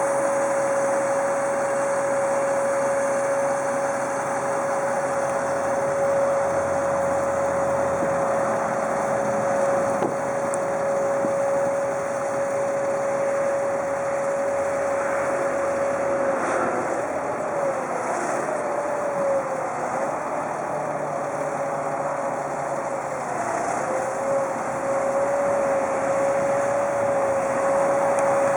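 A 2002 Freightliner FL70 bucket truck's engine running steadily. A high, steady whine sits over it and wavers up and down in pitch for several seconds in the second half before settling.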